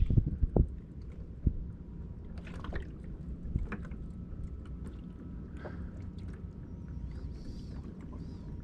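A few sharp knocks and bumps on a small fishing boat in the first second and a half, then the steady low wash of water and wind around the boat, with faint ticks.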